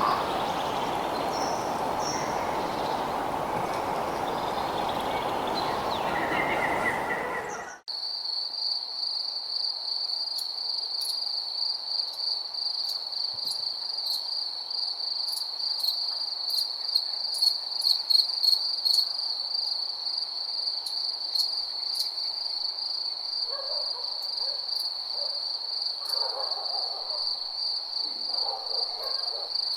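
A steady outdoor noise haze with a few bird chirps, which cuts off abruptly about eight seconds in. A steady high-pitched chorus of crickets follows, with faint ticks, and an owl hoots low several times in the last few seconds.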